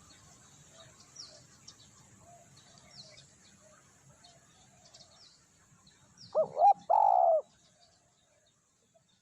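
Spotted dove cooing: two short notes and then a longer one, about six seconds in. It is preceded by faint, high, short chirps of small birds.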